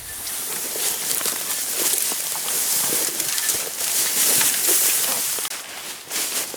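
Footsteps through dry leaves and brush, with irregular rustling and crackling of twigs and branches brushing past.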